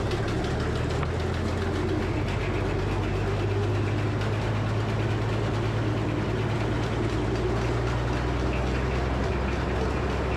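Frick sawmill running steadily while milling a black walnut log into boards, a low engine-like hum throughout.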